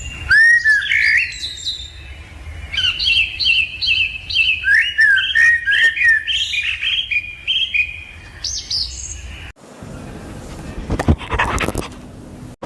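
Bird chirping and twittering, a quick run of short rising and falling notes, which stops abruptly about nine and a half seconds in. After it come hiss and a few sharp clicks.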